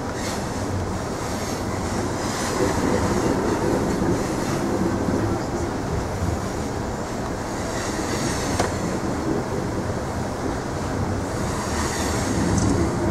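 Passenger train running on the rails, heard from inside the car: a steady rumble and wheel noise, with faint high wheel squeals now and then and one sharp click about eight and a half seconds in.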